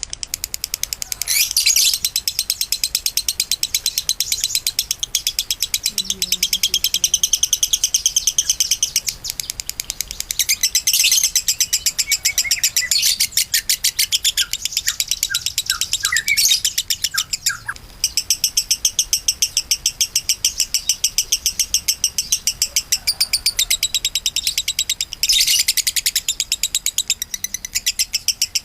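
Lovebird singing a long, nearly unbroken run of rapid, high-pitched chattering notes. This is the continuous 'konslet' style of song.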